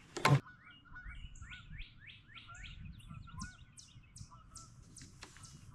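A sharp knock just after the start, then a songbird singing: a run of quick, repeated sweeping notes followed by a faster series of higher, thinner notes.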